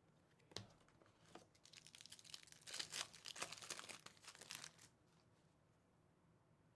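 Plastic trading-card pack wrapper crinkling as it is torn open: a single click, then a couple of seconds of dense crackling that stops suddenly.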